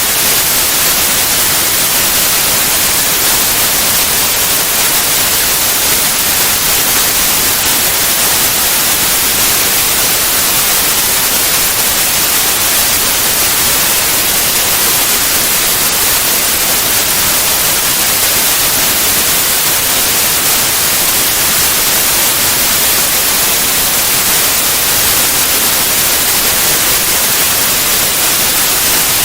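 Steady white noise, a constant even hiss with no changes.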